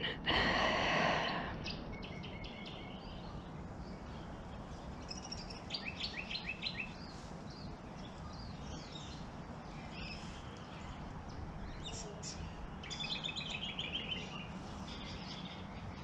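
Small wetland birds calling in quick runs of repeated high chirps, three or four bursts over a steady background hiss. A short breathy sound, louder than the birds, comes at the very start.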